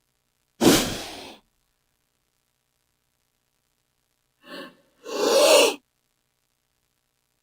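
King cobra hissing: three breathy hisses, a sharp one starting about half a second in, then a short one and a longer, louder one around five seconds in.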